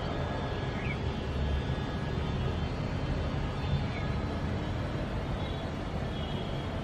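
Steady city traffic rumble with a few faint bird chirps.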